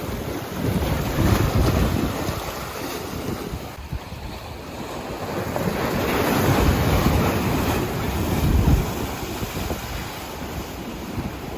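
Ocean surf from a typhoon swell breaking on the beach, with wind buffeting the microphone. The surf swells up twice, briefly about a second in and for longer through the middle.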